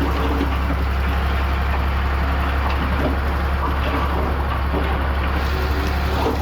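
Heavy construction machine's diesel engine running steadily, a deep even drone.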